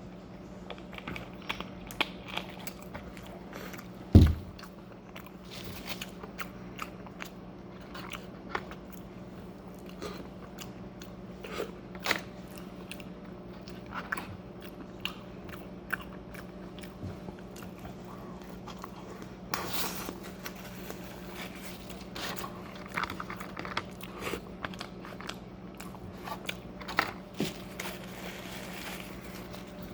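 Close-up eating sounds: crunchy bites and chewing, a string of sharp crunches scattered through, with one loud thump about four seconds in.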